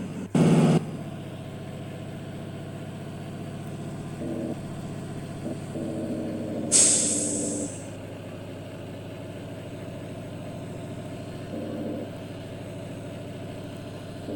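Volvo truck's diesel engine running steadily, with one sharp hiss of compressed air from the air brakes about halfway through that fades over about a second.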